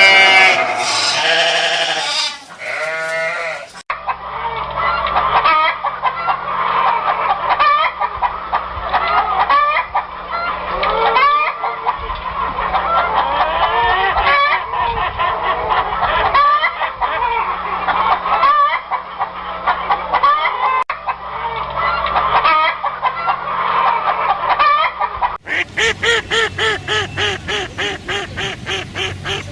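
Bleating for the first few seconds, then a cut to a farmyard flock of poultry calling over one another for about twenty seconds, with many short clucks and honks. Near the end a second cut brings in quacking repeated in a quick, even rhythm.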